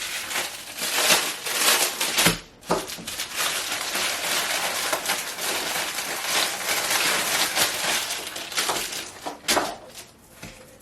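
Handling Velcro cable ties and their plastic packaging: a few sharp clicks, then several seconds of continuous crinkling, rasping noise, and another click near the end.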